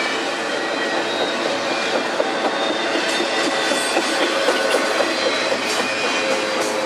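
Double-stack intermodal well cars rolling past at close range: steady rumble and rattle of steel wheels on rail, with a few clicks from wheels crossing rail joints around the middle and faint, thin high squeals from the wheels.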